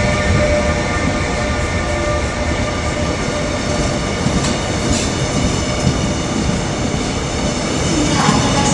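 Korail passenger coaches rolling past along the platform: a steady rumble of wheels on rails, with a few clicks about halfway through.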